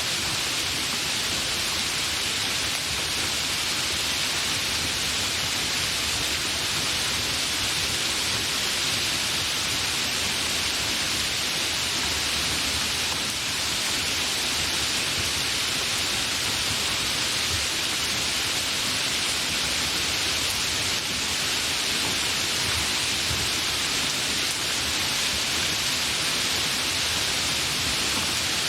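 Steady, fairly heavy rain falling, an even hiss with no thunder.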